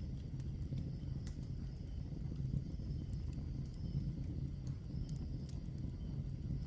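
Log fire burning in a fireplace: a steady low rumble of the flames with scattered sharp crackles and pops from the burning wood.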